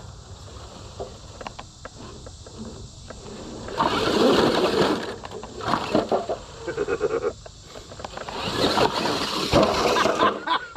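A Traxxas TRX-6 6x6 RC crawler's tyres spinning and scrabbling in dirt and rock as it is driven hard up a hill, in two loud spells about four seconds in and again near the end, with scattered clicks and crunches between them.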